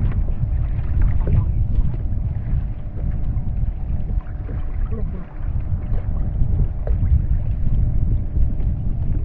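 Wind buffeting the microphone with a steady low rumble, over water lapping and splashing lightly against a kayak's hull.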